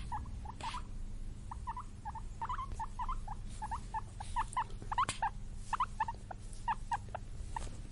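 Guinea pig squeaking in a rapid run of short, high squeaks, several a second, over a low steady background hum.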